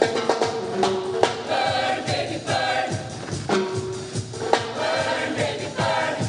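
Show choir singing together over an accompaniment with a steady percussive beat.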